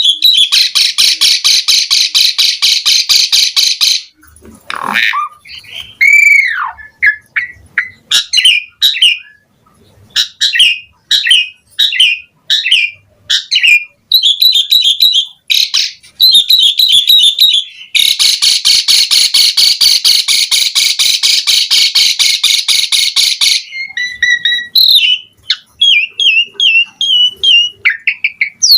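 Asian pied starling (jalak suren) singing a vigorous, varied song: two long, fast, harsh rattles, one at the start and one in the second half, with whistles, a downward-arching whistle and quick chattering notes between them.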